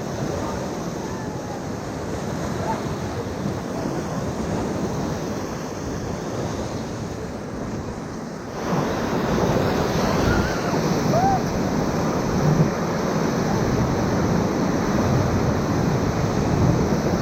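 Whitewater rapids rushing in a steady loud wash, growing louder about eight and a half seconds in.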